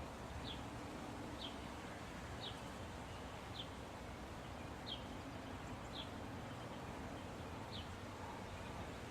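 A bird repeating a short, high, down-slurred call about once a second, seven times, over steady low background noise.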